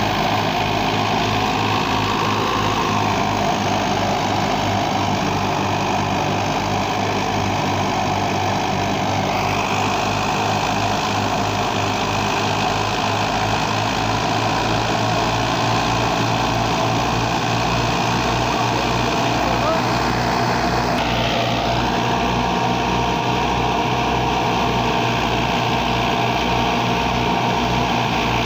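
Fiat 480 tractor's diesel engine running steadily while driving a thresher, with a regular low throb.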